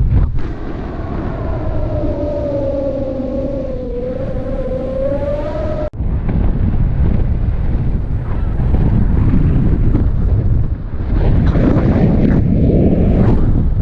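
Wind rushing over the microphone in flight. For the first six seconds a steady whistling tone dips slightly in pitch, rises back, then cuts off suddenly.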